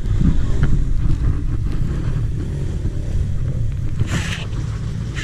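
Dirt bike engine running under a low, steady rumble of wind buffeting the microphone, with a short hissing rush about four seconds in.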